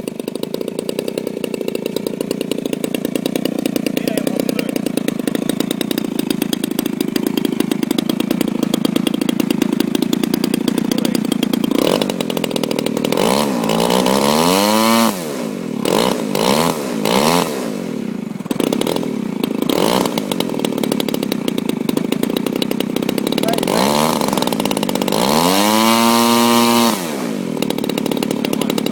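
Small gasoline RC model-airplane engine running at a steady low speed, then revved up and let back down twice, about halfway through and near the end, each time dropping back suddenly. The throttle is acting up: the engine speeds up on its own, which the owners call the throttle behaving oddly.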